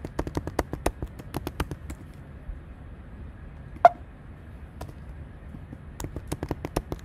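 Light, quick tapping clicks: a run of them at the start, one sharper click with a short ring about four seconds in, and another run near the end.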